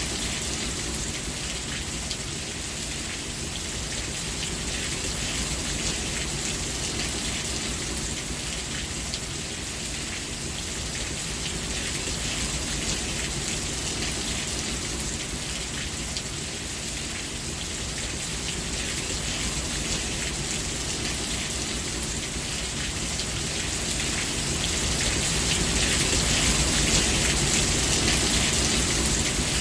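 Steady rain falling and pattering on surfaces, a continuous hiss with a low rumble beneath, swelling slightly louder near the end.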